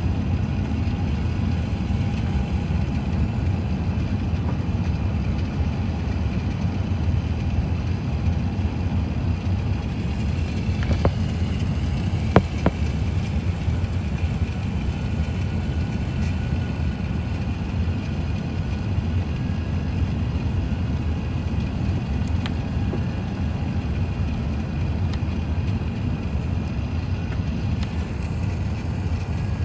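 Airbus A380 cabin noise heard from the rearmost seat: a steady, low rumble of engines and airflow on approach. Two brief clicks come about 11 and 12 seconds in.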